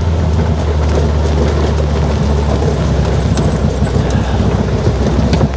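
Off-road buggy engine running steadily under way, a low drone with knocks and rattles from driving over rough, muddy ground.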